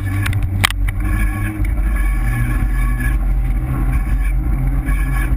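GT Avalanche 3.0 mountain bike being ridden, heard through the camera mounted on it: a loud steady low rumble with a thin rubbing whine that comes and goes from a brake disc dragging on its pads. There are a couple of sharp clicks in the first second.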